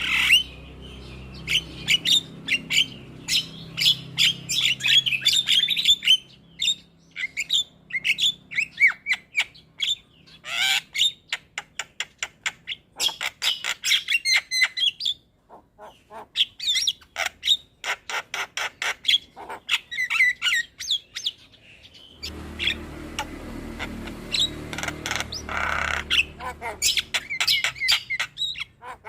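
Javan mynas chattering and calling: rapid runs of harsh squawks mixed with short whistled chirps, pausing briefly in places, over a low steady background hum near the start and again near the end.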